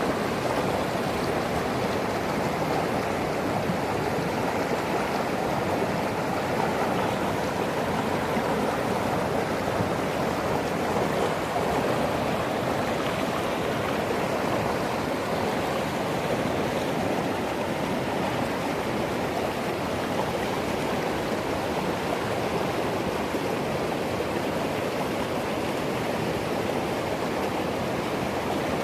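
A swollen mountain river in flood, its fast water rushing over rocks in a steady, unbroken roar.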